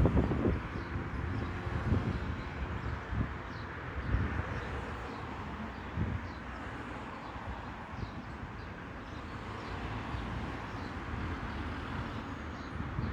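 Outdoor ambience: a steady low rumble with occasional thumps, like wind on the microphone, under faint short high chirps of small birds or insects.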